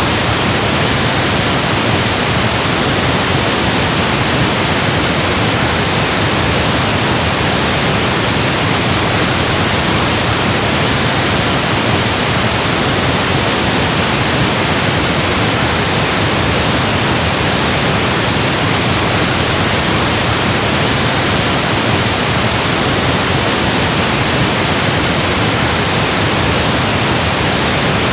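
Steady, unchanging pink noise: an even electronic hiss spread across all pitches, generated as a masking and relaxation sound.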